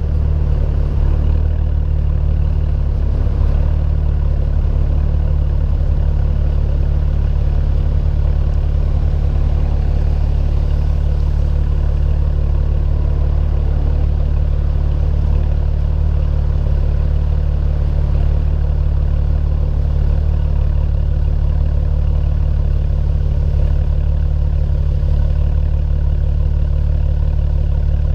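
BMW E90 328i inline-six idling steadily through aftermarket AA headers and a performance exhaust, a deep, even low drone with no revving.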